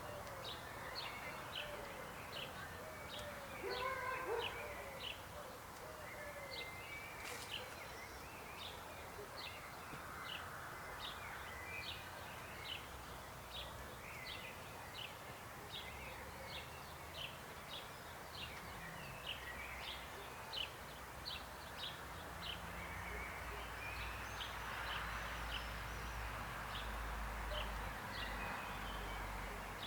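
Frog chorus croaking, with a steady run of short high calls about two a second over a continuous background of many calling frogs, and some lower calls in the first few seconds.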